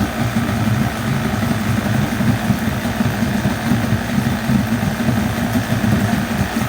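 A 40 hp Mariner two-stroke outboard motor running steadily, with no change in engine speed.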